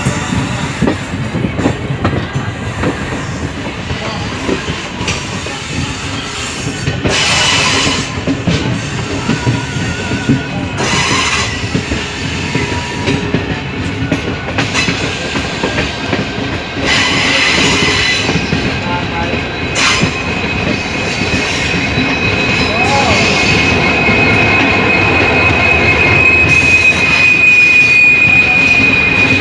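DEMU passenger train running along the track, heard from an open carriage window: steady wheel-and-rail rolling noise with a few short surges. From about two-thirds of the way through, a steady high-pitched wheel squeal sets in and grows louder.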